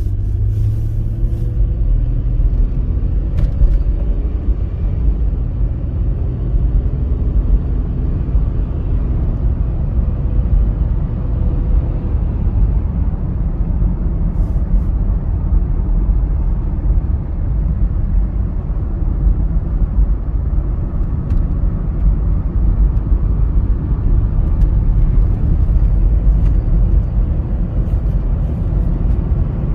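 1998 Mazda MPV's engine idling, heard as a steady low rumble with a faint hum that fades about a third of the way through.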